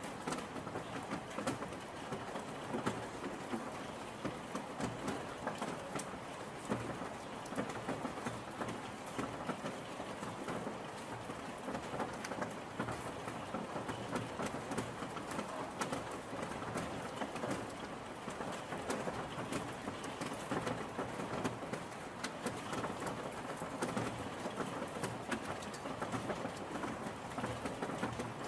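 Steady rain falling, a dense, even patter of countless drop impacts that keeps up without a break.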